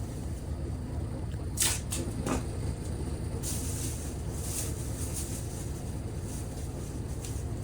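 Thin plastic masking sheeting crinkling as it is handled and pressed into place, with a few sharp crinkles between about one and a half and two and a half seconds in, over a steady low hum.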